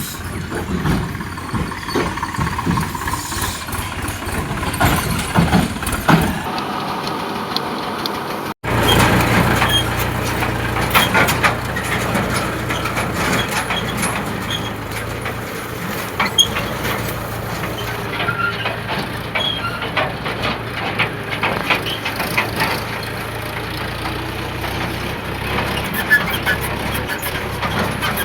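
Tractor engine running, mixed with rattling and knocking from the load. About nine seconds in the sound cuts abruptly, and after that a steady low engine drone carries on under scattered knocks.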